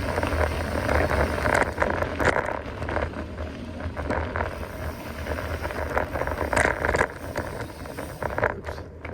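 Mountain bike being ridden over rough trail: steady tyre noise with irregular clicks and rattles from the bike, and wind rumbling on the microphone.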